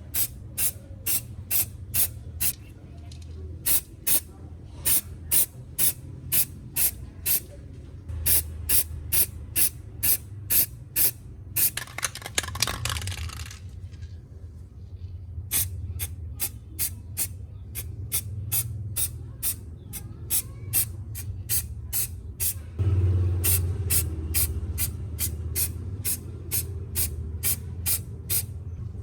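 Spray released in short, evenly spaced hissing bursts, about three a second, with one longer spray of over a second about twelve seconds in and a brief pause soon after; a steady low hum runs underneath.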